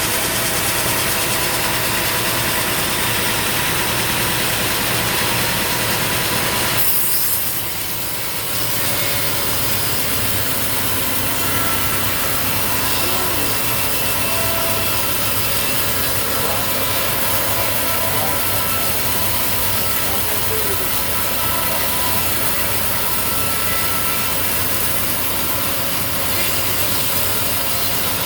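Sawmill blade cutting lengthwise through a mahogany log, with the mill's machinery running steadily. About seven seconds in, the sound briefly drops and changes before the cutting carries on.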